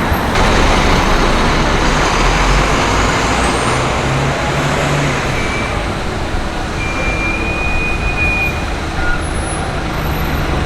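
Busy street traffic, with vehicles passing continuously and a heavy vehicle's engine rumbling by a few seconds in. A brief high squeal sounds just past the middle.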